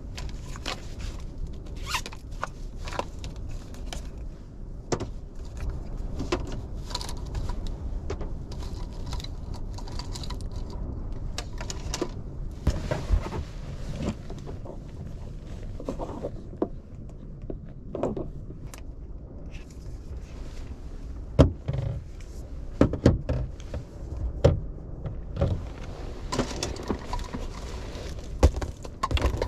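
Irregular clicks, taps and thunks of things being handled and moved inside a kei car, a few sharper knocks about two-thirds of the way in, over a steady low rumble of strong wind on the car.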